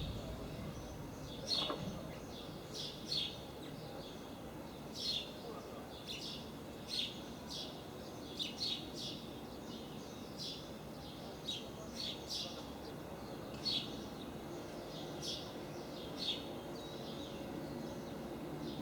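A small bird chirping repeatedly, short high calls every second or so, over faint steady outdoor background noise.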